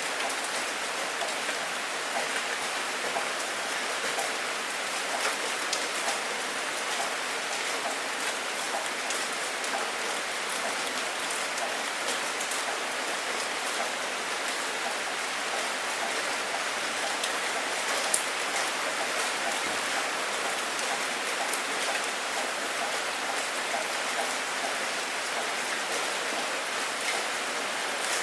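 Steady rain falling, a constant even hiss with scattered sharp drop ticks, one a little louder about two-thirds of the way through.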